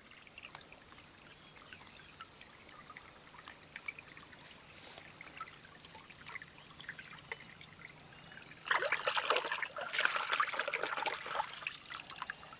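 Plastic toy packaging being handled: faint scattered ticks and rustles, then about nine seconds in a louder crinkling rustle lasting a few seconds.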